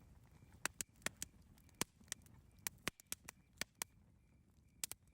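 Wood fire crackling: irregular sharp pops and snaps, about a dozen, over a soft low rumble.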